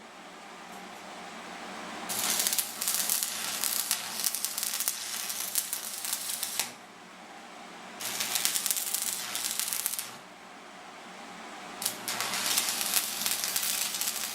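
Stick-welding arc from a 6013 electrode, crackling and sizzling in three bursts of a few seconds each, with short pauses between them. A steady low hum runs underneath.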